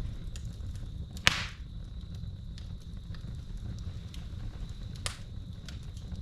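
Wood fire crackling over a low steady rumble, with scattered small crackles and a sharp loud pop about a second in and a smaller pop near the end. Crickets trill steadily in the background.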